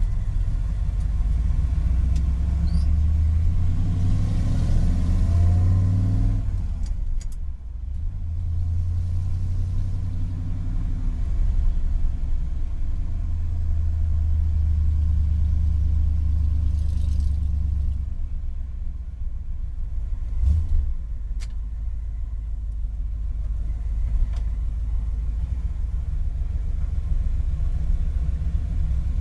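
1968 Ford F250's 390 cubic-inch big-block V8 pulling the truck along, heard from inside the cab. The engine note climbs over the first few seconds, drops briefly about seven seconds in, then runs steadily before easing off about eighteen seconds in, with a few short clicks a couple of seconds later.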